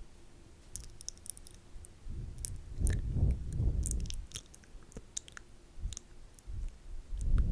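Wet ASMR mouth sounds close to the microphone: scattered sharp clicks and smacks, with stretches of low rumbling about three seconds in and again near the end.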